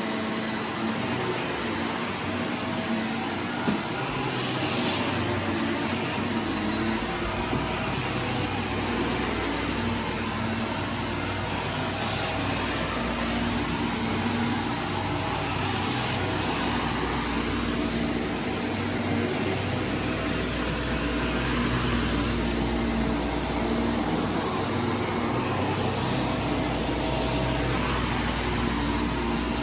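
Vacuum cleaner running steadily with a constant motor hum, with a few brief hissy surges now and then.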